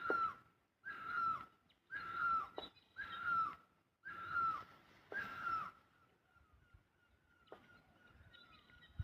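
A bird giving a series of six harsh calls about a second apart, stopping about six seconds in, after which only a faint thin tone is left.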